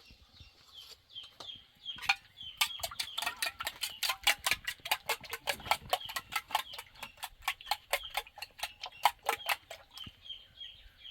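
A fast, even run of sharp clicks or taps, about six a second, starting about two seconds in and stopping shortly before the end, over faint, short high chirps that repeat throughout.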